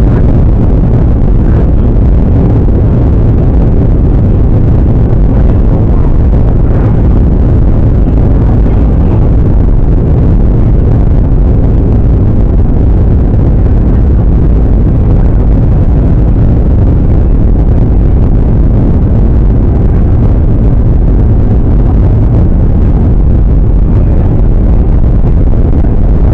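Steady, loud cabin noise of a Boeing 737-800 airliner in flight: engine and airflow noise, heaviest in the low end, with no change in level or pitch.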